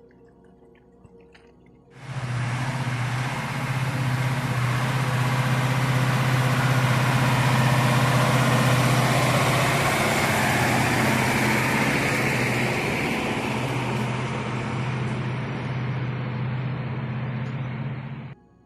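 A motor vehicle running: a steady low hum under loud rushing noise, starting suddenly about two seconds in and cutting off just before the end.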